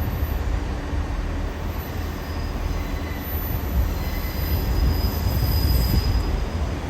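British Rail Class 158 diesel multiple unit arriving at the platform: a steady low diesel and rail rumble, with a thin high-pitched squeal from the wheels coming in about halfway through as it slows.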